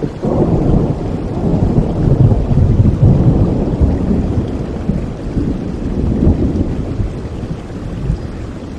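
Thunder rumbling over steady heavy rain: a long low roll that builds after the start, peaks a couple of seconds in, swells again a little later and slowly dies away.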